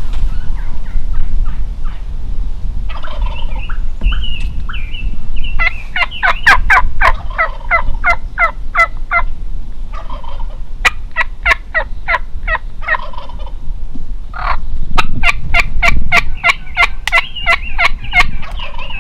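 Wild turkeys calling loudly: three runs of rapid, sharp notes a few seconds each, gobbling mixed with fast yelps, with softer calls in between. A low wind rumble runs underneath.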